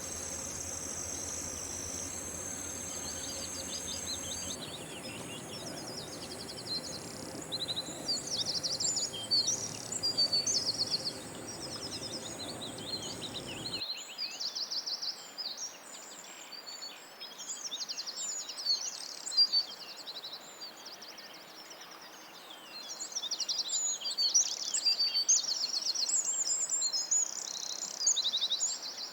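Wild birds chirping and giving quick, high trills again and again, over a steady high buzz in the first half that stops abruptly about 14 seconds in.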